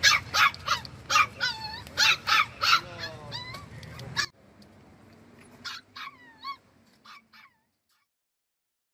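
Dogs whining and yelping in a rapid series of short, high calls. The sound cuts off sharply about four seconds in, and a few fainter whines follow before it falls silent.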